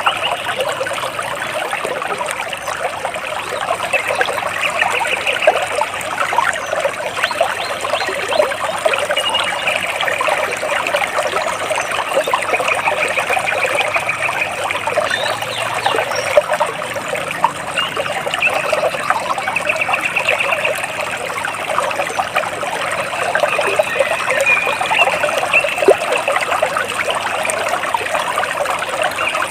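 Water splashing and trickling steadily, with a small bird's rapid trills breaking in over it several times.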